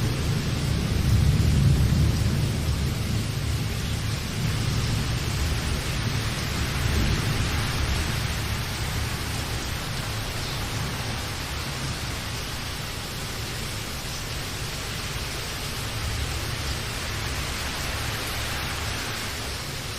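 Steady rain, with a low rumble of thunder that swells to a peak about two seconds in and then slowly fades.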